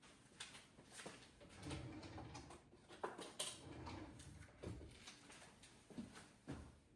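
Faint kitchen handling sounds: a scattered series of light clicks and soft knocks, with a low rumble twice in the middle.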